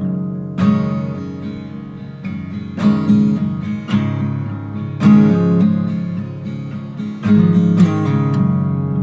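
Background music: acoustic guitar strumming chords, each strum ringing out before the next.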